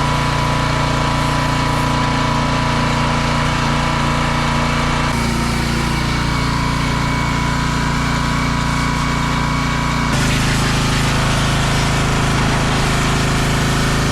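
Freshly swapped diesel engine of a Dodge Sprinter van running steadily, in three joined takes with sudden changes in tone about five and ten seconds in.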